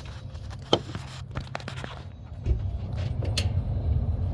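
Ford 5.4 L V8 engine idling with a steady low rumble that gets louder about two and a half seconds in, with a few sharp clicks over it.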